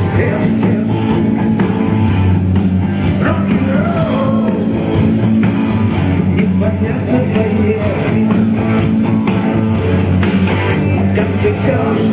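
A rock band playing a rock-and-roll song live, with a singing voice over it.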